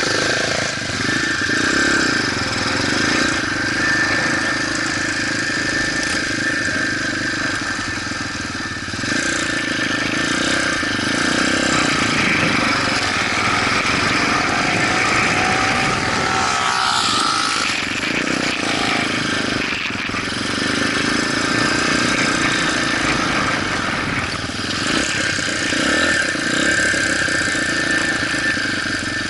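Motorcycle engine running while under way, with a steady haze of road and wind noise. The pitch shifts briefly about two-thirds of the way through.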